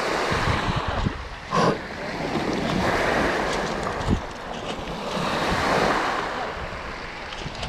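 Wind buffeting the microphone over splashing, sloshing sea water, swelling and fading, with a short sharp sound about a second and a half in and a thud about four seconds in.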